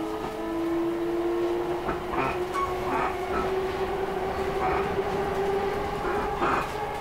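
Commuter train running, heard from inside the passenger car: a steady hum with a tone slowly rising in pitch, and wheels clicking over rail joints a few times.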